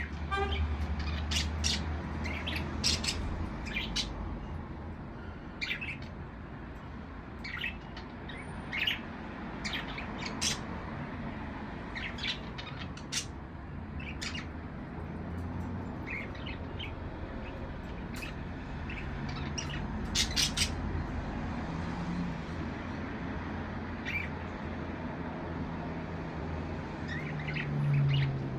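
Budgerigars chirping: short, sharp chirps come singly and in quick clusters throughout, over a low steady hum.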